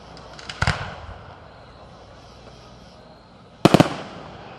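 Fireworks exploding overhead: a few small pops and a sharp bang in the first second, then a quick cluster of three or four loud bangs near the end, each trailing off in an echo.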